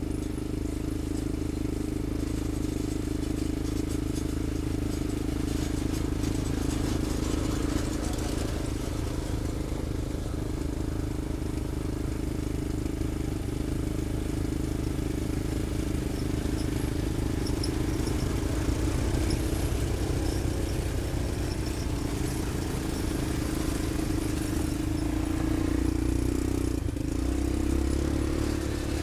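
A vehicle's engine running steadily, a constant drone, a little louder near the end.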